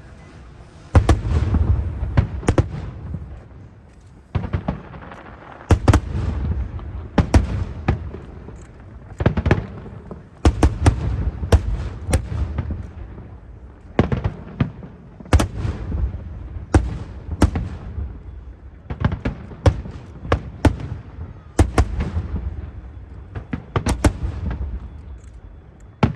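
Aerial fireworks shells bursting in quick succession: sharp bangs about every second or two, starting about a second in, each followed by a deep rolling echo.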